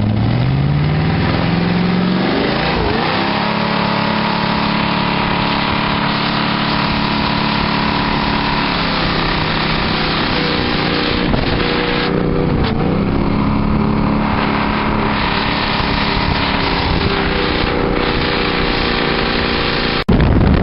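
Motorboat engine speeding up over the first couple of seconds, then running steadily at speed, with a couple of brief dips in pitch where the throttle eases off and comes back.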